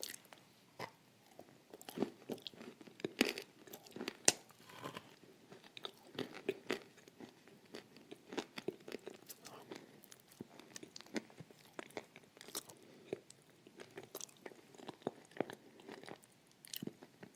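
Close-miked mouth sounds of someone chewing and crunching a thick cream: irregular wet crackles and clicks that come several times a second.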